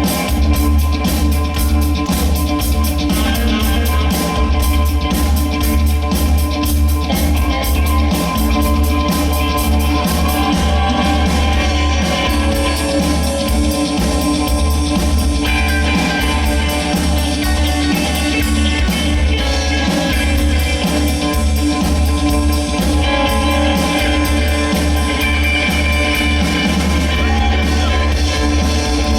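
Live rock band playing: electric lead guitar, bass guitar and a drum kit, loud and steady with a regular beat, with some singing.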